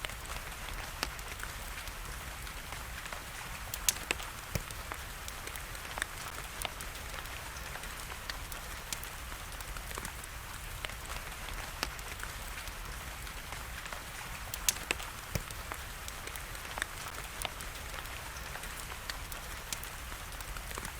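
Wood fire crackling, with sharp pops every second or so and a few louder ones, over a steady hiss of rain.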